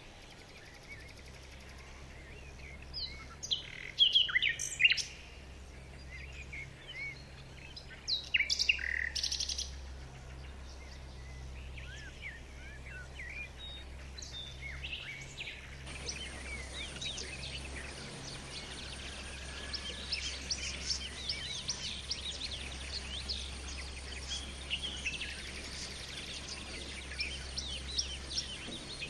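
Wild birds calling: a few loud, sharp chirps in the first third, then about halfway through a dense chorus of many birds chirping together. A faint steady low hum runs underneath.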